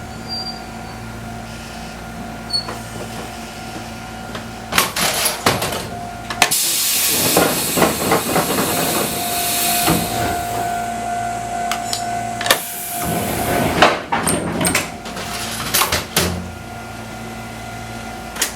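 Fukui Railway 200 series electric car standing at a stop, with a long hiss of compressed air and several clunks from its air-operated door and brake gear over the car's steady electrical hum.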